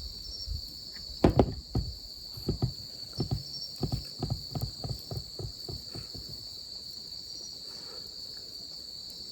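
Biting into and chewing a crisp deep-fried chicken wing: a run of irregular crunches for about five seconds, loudest at the first bites. Crickets or other insects chirr steadily behind it.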